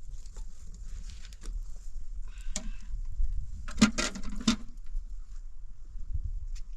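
Scattered clicks and knocks over a low rumble, with a short cluster of loud clattering knocks about four seconds in.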